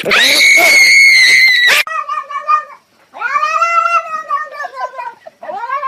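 Cat yowling: a loud, high-pitched screech held for almost two seconds, then a string of long, drawn-out yowls that rise and fall in pitch.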